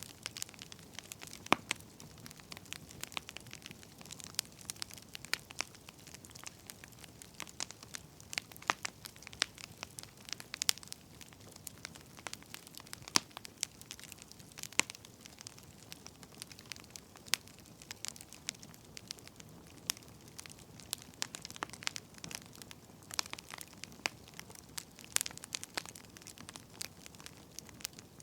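Burning firewood crackling: irregular sharp pops and snaps, several a second, over a soft hiss.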